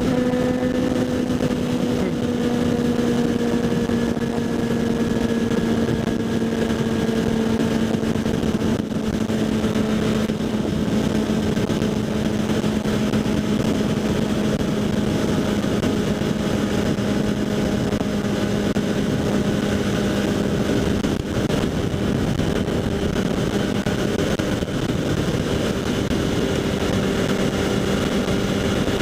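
Kawasaki Z800's inline-four through a LeoVince SBK aftermarket exhaust, running at a steady cruise with its pitch slowly sinking as the bike eases off. Heard under wind and road rush on a helmet-mounted microphone.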